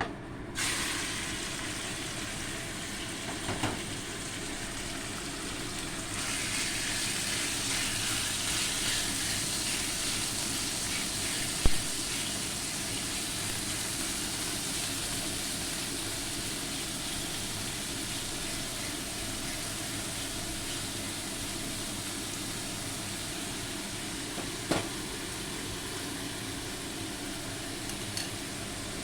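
Food sizzling in hot oil in a pan, starting suddenly about half a second in and growing louder about six seconds in, with a few sharp knocks of a utensil, the loudest near the middle.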